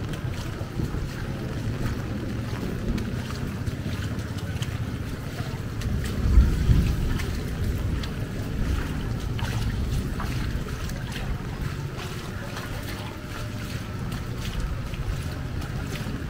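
Heavy rain with wind buffeting the microphone: a steady low rumble with a fine patter above it, swelling louder for about a second around six seconds in.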